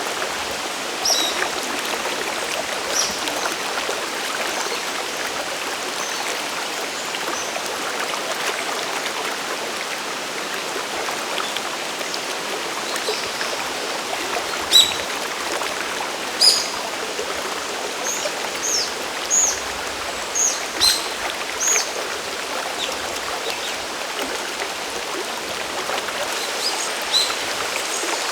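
Steady rush of a mountain river and waterfall, with short high bird chirps scattered over it, most of them coming in a cluster past the middle.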